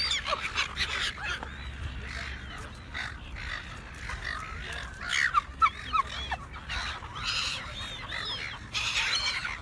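A group of birds calling, with many short, overlapping chirps and squawks and a steady low rumble underneath.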